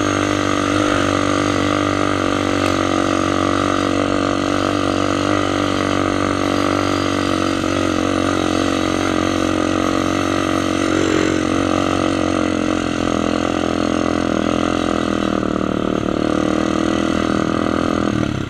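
ATV engine running at a steady speed, holding an even pitch with slight wavering, then cutting off abruptly at the end.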